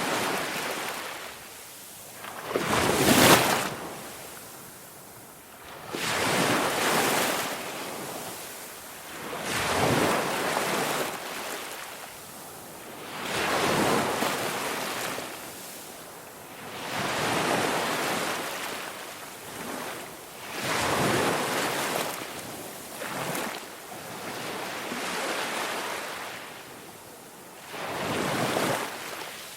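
Ocean surf: waves breaking and washing in, swelling and fading in an even rhythm about every three to four seconds.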